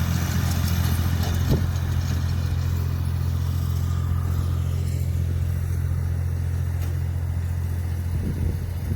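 Lawn tractor engine running steadily while mowing grass, with a brief knock about a second and a half in.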